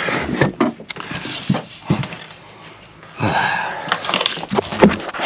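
Clunks, knocks and scrapes of stored items being shifted by hand to get at a box buried under a stack, with a longer scrape a little past halfway.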